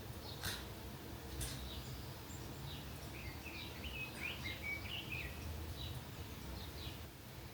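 Small birds chirping, with a busier twittering phrase in the middle, over a steady low outdoor rumble. Two sharp clicks near the start.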